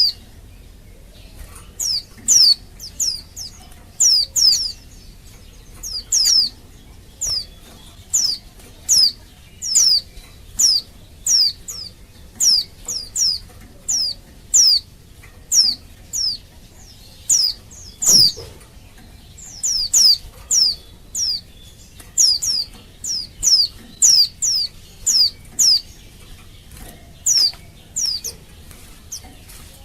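Female white-eye (pleci) giving her call: short, high, downward-sweeping notes, often in quick clusters of two or three, repeated about every second, as used to lure male white-eyes into singing.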